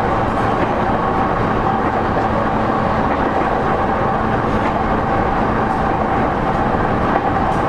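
Running sound of a JR East E231-0 series EMU at speed, heard from inside the motor car: the underfloor traction motors and wheels on rail make a steady, loud rumble with a steady whine on top. There is one brief knock about seven seconds in.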